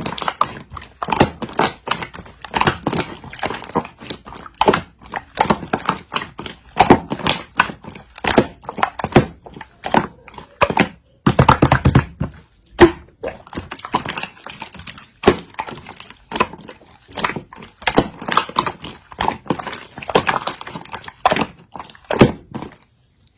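Yellow clear slime being squeezed and poked by hand, making irregular wet clicks, pops and squelches that stop abruptly near the end.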